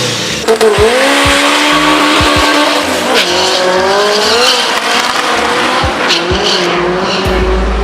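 Drag-racing car engine running, its pitch rising about a second in and then holding with slight wavers.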